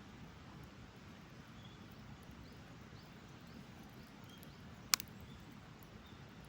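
Wood campfire crackling quietly over a low steady rumble, with faint small ticks and one sharp pop about five seconds in.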